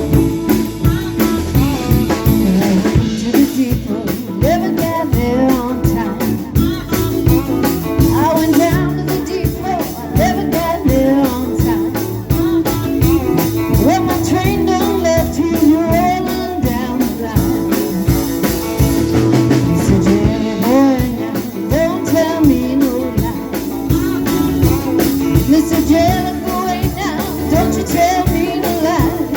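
Rock band playing: a singer over guitar, bass and drum kit, in a steady blues-rock groove.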